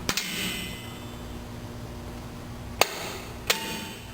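Metal drum-brake parts clinking as they are handled and fitted: a light clink at the start, then two sharp clinks about three seconds in, half a second apart, the second leaving a short ring.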